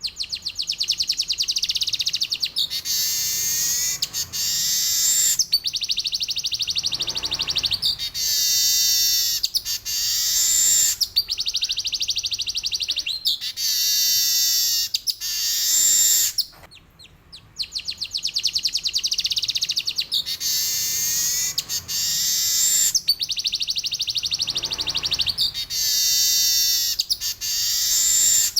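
Male weaver (manyar) singing a long, continuous high-pitched song of fast buzzy trills and falling sweeps in repeated phrases, with one brief pause a little past the middle.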